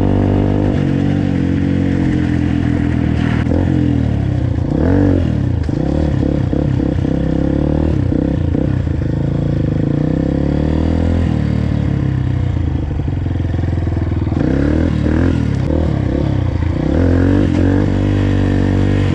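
Dirt bike engine running and revving, its pitch rising and falling repeatedly as the throttle is opened and closed, with steadier stretches in between.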